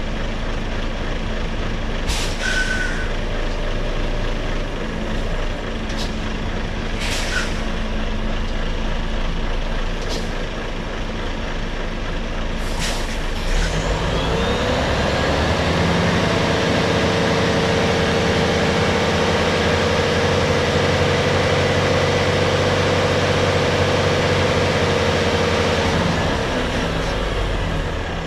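Articulated lorry's diesel engine running, with several short hisses of released air in the first half. About halfway through the engine revs up, holds the higher revs steadily for about twelve seconds, then drops back.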